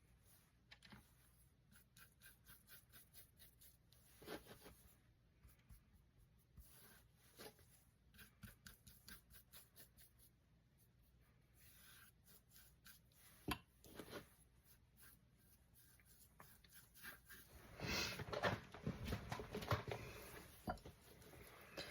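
Paintbrush scrubbing and dabbing acrylic paint on a canvas in quick, faint strokes, with a louder run of strokes near the end.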